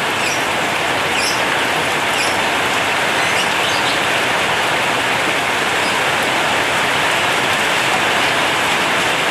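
Heavy rain drumming steadily on a corrugated zinc roof.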